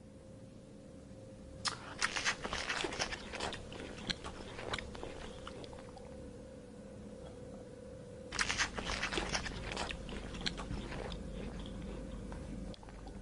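An animal crunching and chewing hard food in two spells of quick, irregular crunches, the second starting about eight seconds in.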